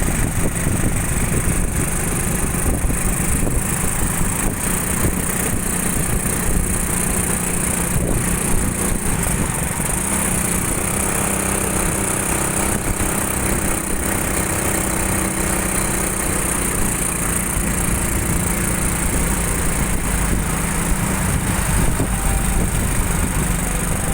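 Motorcycle engine running while riding, under heavy low wind rumble on the microphone. A steadier engine note stands out for several seconds in the middle.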